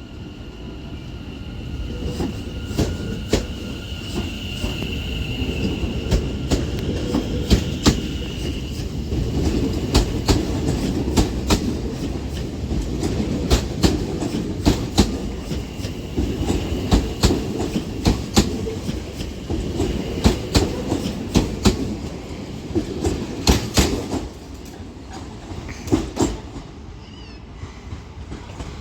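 Doubled-up Class 730 electric multiple unit pulling out and picking up speed. Its running rumble builds and then fades about 24 seconds in, with a long run of sharp clicks as the wheels go over the rail joints and points. A thin high whine sounds for the first several seconds.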